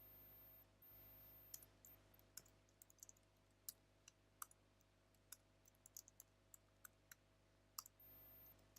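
Faint, irregular clicks of computer keys being typed over near-silent room tone, with a faint very high whine that comes and goes.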